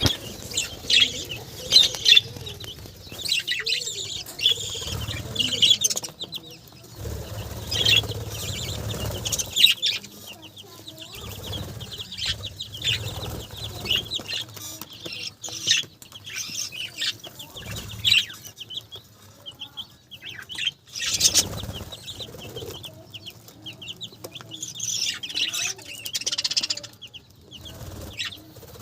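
A flock of budgerigars chirping and chattering in repeated bursts of quick, high calls, with patches of low rustling between.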